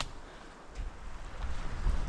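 Strong wind buffeting the microphone: a low, fluctuating rumble over a steady rush of wind. There is a sharp click at the very start and a short tick near the end.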